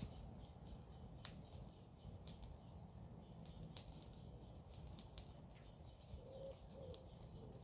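Garden-waste bonfire burning, with sharp crackles and pops scattered irregularly over a low rumble. Past the six-second mark a dove coos softly, a few low notes.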